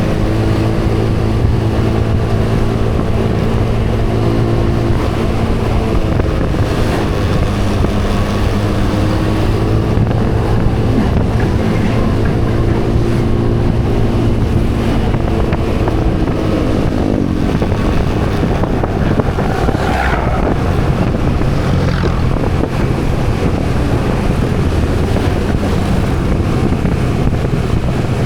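Small engine running steadily while riding, under wind noise on the microphone; the engine's pitch slides down about two-thirds of the way through as it slows.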